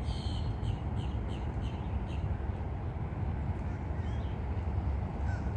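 A bird calling in a quick series of short, high calls, about three a second, that fade out about two seconds in, over a steady low rumble.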